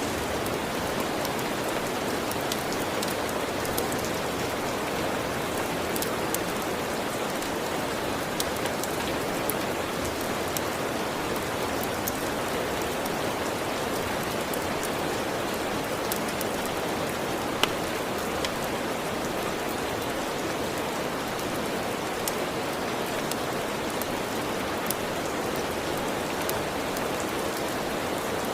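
Steady, even rain, with scattered sharp clicks and ticks over it.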